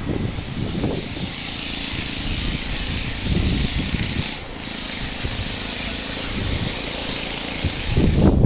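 A steady, loud hiss over a low rumble; the hiss breaks off for a moment about halfway and stops near the end.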